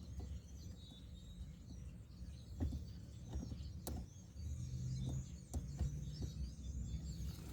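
Faint birds chirping in the background, with a few sharp light clicks, like parts or tools being handled. A low rumble grows louder about halfway through.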